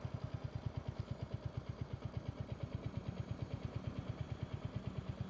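Royal Enfield motorcycle engine idling, a steady even beat of low exhaust pulses, about eight or nine a second.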